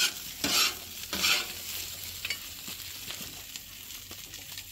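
Chorizo and potatoes sizzling as they fry in a pan, stirred in a few loud strokes in the first second and a half, then frying on steadily.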